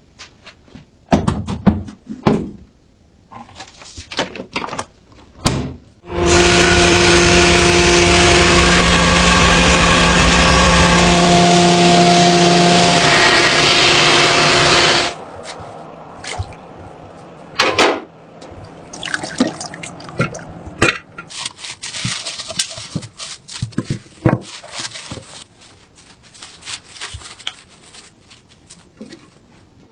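Small clicks and knocks of metal parts being handled. About six seconds in, a loud steady rush of running water starts and cuts off suddenly some nine seconds later, followed by scattered lighter taps and clicks.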